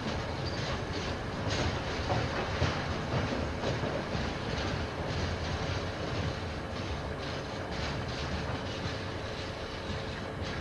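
Train passing, a steady rolling rumble with wheels clicking over the rail joints several times a second.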